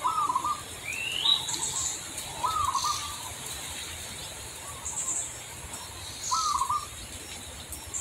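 Birds calling: a short warbling call repeated three or four times, a rising whistle about a second in, and brief high chirps in between.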